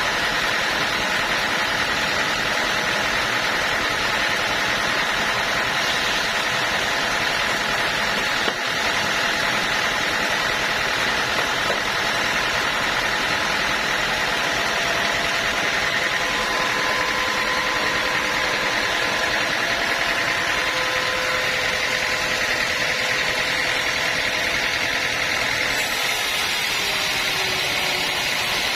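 Sawmill machinery running steadily, an engine-driven drone with a few faint whining tones that shift slightly in pitch partway through.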